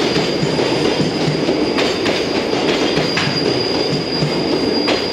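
Empty container flatcars of a freight train rolling slowly past as the train pulls into the station, with a steady high squeal setting in at the start and holding, and a few clacks over the rail joints.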